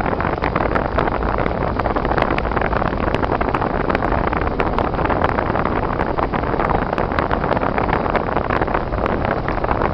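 Steady road and wind noise from a car driving on snowy, icy roads, with many small irregular clicks and ticks.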